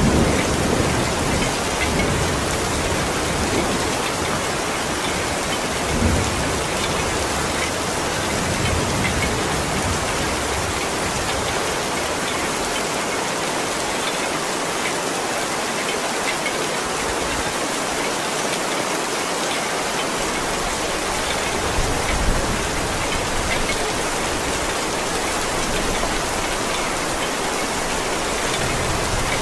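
Heavy rain falling steadily, an even hiss, with a low thunder rumble dying away in the first couple of seconds.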